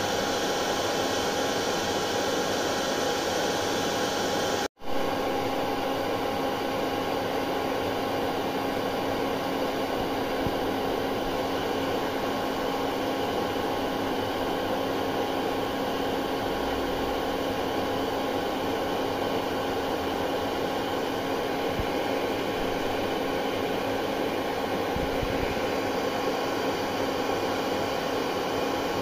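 Hair dryer running steadily: an even rushing of air with a faint steady motor hum, played as soothing white noise for a colicky baby. The sound cuts out for an instant about five seconds in.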